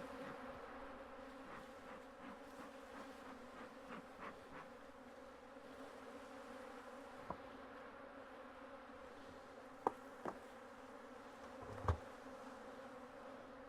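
Honeybees buzzing as a steady, low hum around an opened hive. A few sharp knocks sound in the second half.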